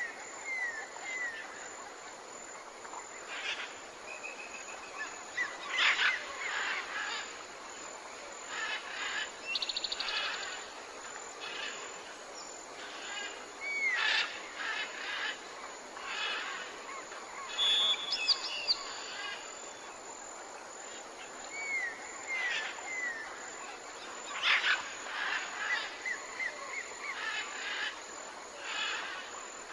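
Several wild birds calling and singing: short chirps, quick trills and short down-slurred whistles come every second or two over a steady background hiss.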